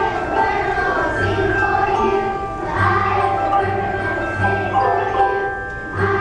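Music from a children's school ensemble: a slow tune of held notes over a low note that sounds in repeated blocks.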